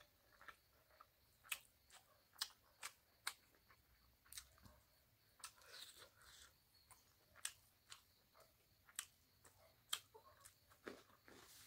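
Close-miked chewing of rice and pork: faint, irregular wet mouth clicks and smacks, several a second at times, with no steady sound beneath.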